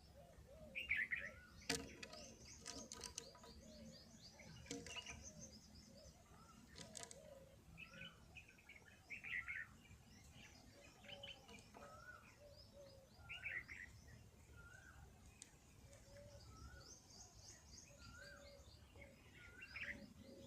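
Several birds chirping: short, faint chirps repeated every second or two, with quick high trills about two seconds in and again near the end. A few sharp clicks in the first seven seconds.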